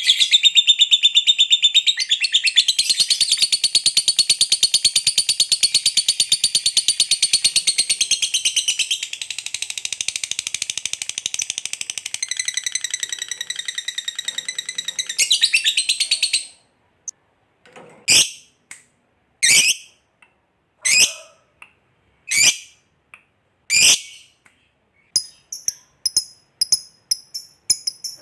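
Lovebird 'ngekek': a long, unbroken, rapid high-pitched chattering trill lasting about sixteen seconds, then stopping abruptly. Five separate sharp calls follow, about a second and a half apart, and then a run of quick high chirps near the end.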